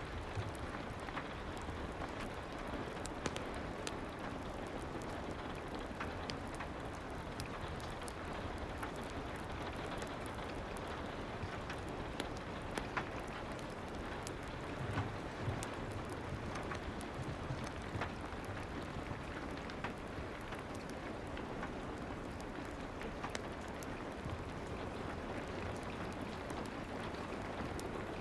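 Soft, steady rain with scattered small crackles of a wood fire.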